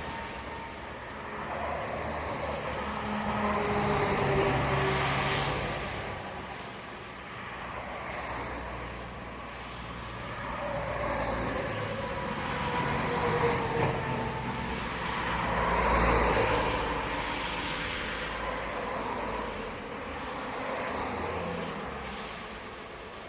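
A train hauling Kiha 283 series diesel railcars passing by, its wheels rumbling on the rails in swells every two to three seconds, with faint wavering tones over the noise.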